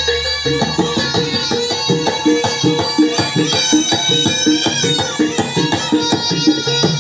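Live barongan accompaniment from a Javanese ensemble: drum strokes in a steady quick beat under a sustained, reedy wind-instrument melody.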